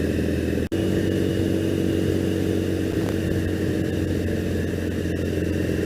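2001 Triumph Bonneville's air-cooled parallel-twin engine running steadily at a constant speed while riding, with an even hum that does not rise or fall. The sound cuts out for a split second under a second in.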